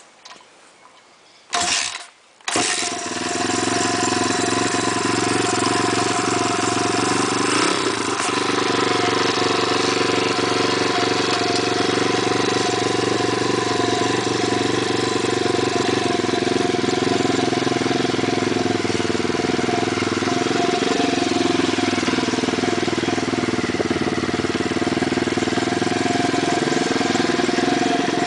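160cc single-cylinder pit bike engine starting: a short burst about a second and a half in, then it fires up about two and a half seconds in and runs steadily at idle, with slight rises and falls in revs later on.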